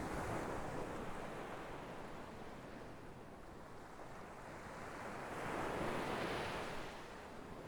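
Sea waves breaking and washing up the shore: one wave crashes right at the start and fades, and a second swells and breaks about six seconds in.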